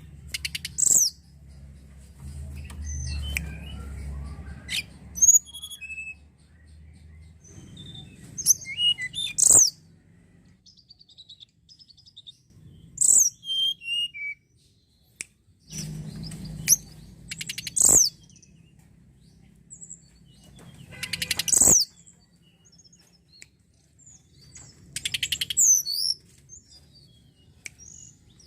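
Tledekan gunung singing: short, high, sharp phrases of quick whistled and falling notes, repeated every few seconds with pauses between. A faint low rumble lies under some of the phrases.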